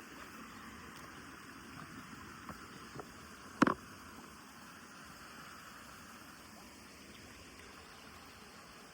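Steady rushing of a small waterfall, with a few faint ticks and one sharp, loud knock about three and a half seconds in.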